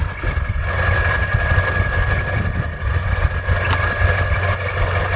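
Ford Powerstroke diesel pickup engine idling steadily, with a steady high-pitched whine over the low drone.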